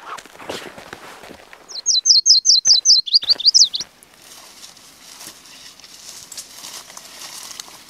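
A songbird calls: a fast run of about ten sharp, high, downward-sweeping notes, then a few quicker up-and-down notes, about two seconds in all. Before it there is cloth rustling as a jacket comes off, and after it faint footsteps through dry grass.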